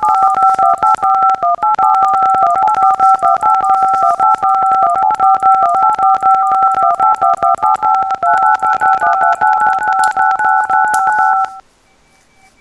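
Telephone keypad touch tones, each press a two-note beep, in a rapid unbroken run of key presses that stops abruptly about eleven and a half seconds in.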